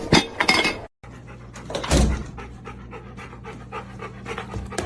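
A dog panting in quick, short, rhythmic breaths.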